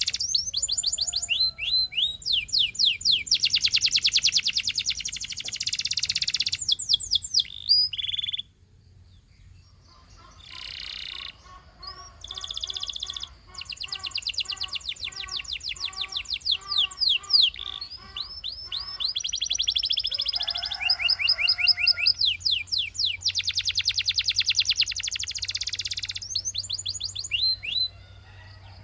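Canary singing: long, fast rolling trills of rapidly repeated high notes and sweeping phrases, with a short pause about eight seconds in.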